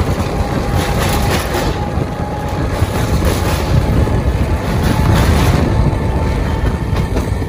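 Electric multiple-unit (MEMU) passenger train running at speed, heard from on board: a loud, steady rumble and rattle of wheels on the track.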